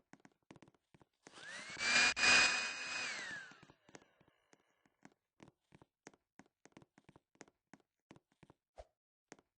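Hair dryer switching on and spinning up to a steady high whine. It runs about two seconds, then winds down. Faint regular ticks sound throughout.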